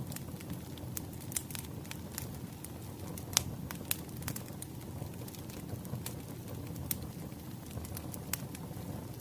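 Wood fire crackling: a steady low rumble of burning logs with irregular sharp pops and snaps, the loudest a little over three seconds in.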